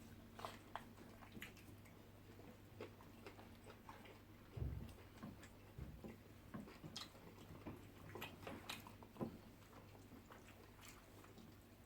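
Faint eating sounds: scattered wet smacks and clicks of people chewing banku and vegetable soup, with a low thump about four and a half seconds in, over a steady low hum.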